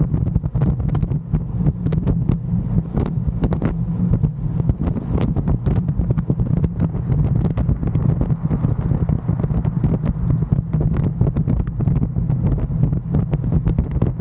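Wind buffeting the microphone on a moving electric motorcycle: a steady low rumble with quick gusty bursts. The quiet electric drive is not heard, only the wind.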